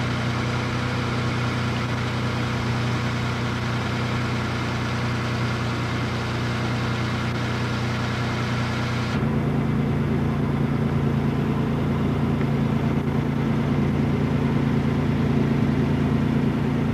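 Truck engine running steadily while driving, a constant hum with hiss over it. About nine seconds in the sound changes abruptly: the hiss drops and the hum shifts lower.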